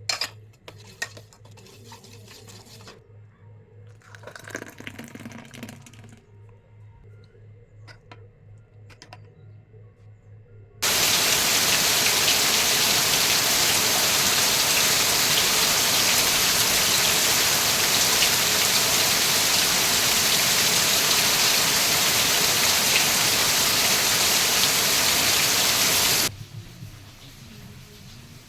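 Water running from a kitchen tap into a sink, a steady hiss that starts abruptly about eleven seconds in and stops abruptly some fifteen seconds later. Before it, a few faint clicks and handling knocks.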